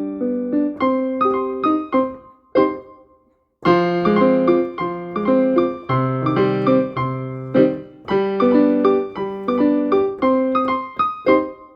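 A piano-type keyboard playing a slow, simple melody over repeating chords, with struck notes that ring and fade. The playing dies away to a brief silence about three seconds in, then picks up again.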